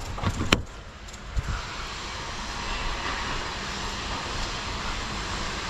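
Steady vehicle noise inside a truck cab: a low engine hum with a rushing noise that swells in about a second and a half in, after a couple of sharp clicks at the start.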